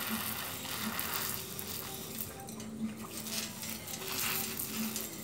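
Pump-up garden pressure sprayer hissing out a water spray in several bursts, the water spattering as it lands.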